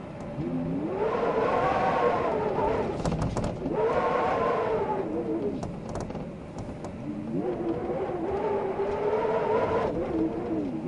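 Wind howling in gusts, a whistling tone that rises and falls in pitch with each of three swells, with a few faint clicks.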